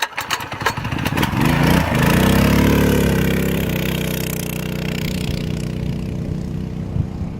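Mini bike's small four-stroke engine revving up and then running steadily at speed, easing off slightly near the end, with a few clicks in the first second.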